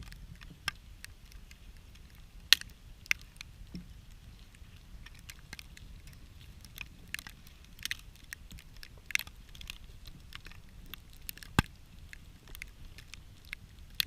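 Campfire of small sticks crackling: irregular sharp pops and snaps of burning wood, the strongest about two and a half seconds in and again near the end, over a faint low rumble.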